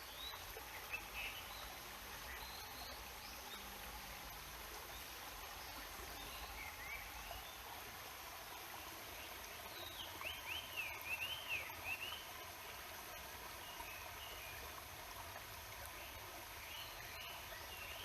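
Steady murmur of a stream with small birds chirping over it; a quick run of louder chirps comes about ten seconds in.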